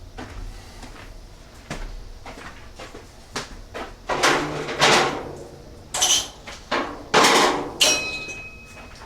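Clunks, knocks and clatter of parts or tools being handled, with two louder stretches of rattling about four and seven seconds in. A sharp metallic clink near the end rings on for about a second.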